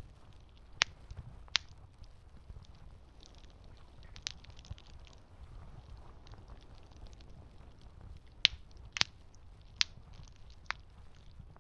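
Campfire crackling: sharp wood pops scattered through, several close together near the end, over a low steady rumble of the burning fire.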